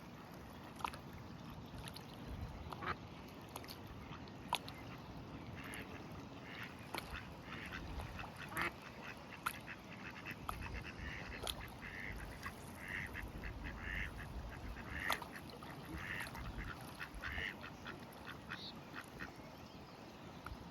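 Ducks quacking, a quick series of short calls for most of the middle stretch, over a low rumble, with a few sharp clicks.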